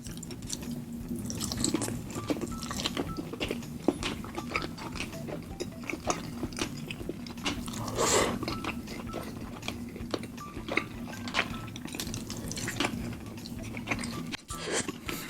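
Close-miked eating sounds: chewing and biting into saucy cooked chicken, with wet smacking clicks of the mouth.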